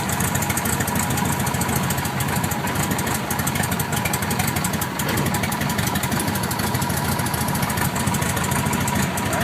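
1967 Cessna 150's Continental O-200 four-cylinder air-cooled engine and propeller running steadily at low power, near idle, with an even, fast pulsing beat.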